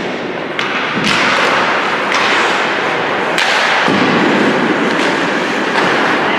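Ice hockey play in a rink: skates scraping the ice, with several sharp knocks of sticks, puck or boards.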